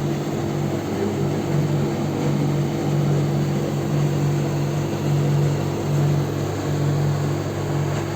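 Steady mechanical hum of a counter refrigerator's refrigeration unit running, a low tone that swells and fades about once a second.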